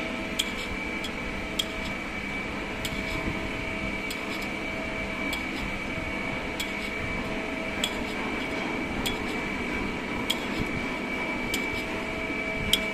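Steady mechanical hum with a few held tones, broken by a sharp click about every second and a quarter.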